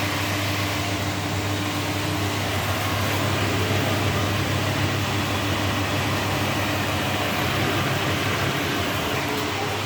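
Whirlpool washing machine on its spin cycle, running steadily: a constant low hum with an even rushing noise over it.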